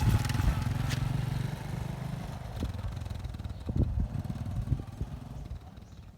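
Motorcycle engine running, loud at first and then fading steadily as it moves away, with a few short knocks near the middle.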